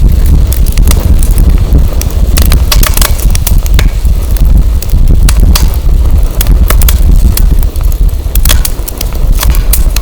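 Firewood burning with frequent sharp, irregular crackles and pops. A heavy low rumble of wind buffeting the microphone runs underneath.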